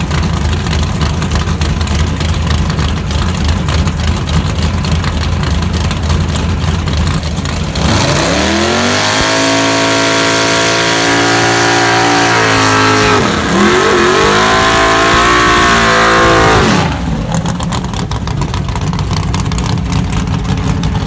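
Drag race car engine rumbling at low revs, then launching about eight seconds in with a steeply rising note. The pitch dips briefly once partway through, as at a gear shift, then climbs again before the engine sound cuts off abruptly, leaving a low rumble.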